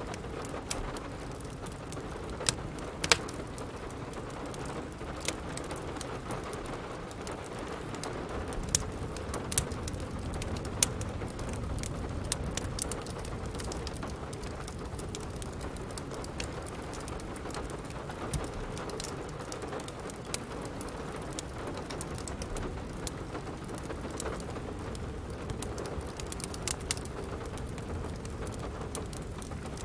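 Steady rain with a wood fire crackling, its sharp pops landing every second or few, most thickly around the first third and again near the end.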